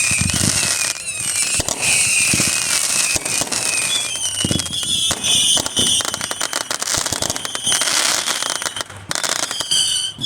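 Fireworks going off in a dense barrage: rapid crackling and bangs with several overlapping whistling shells.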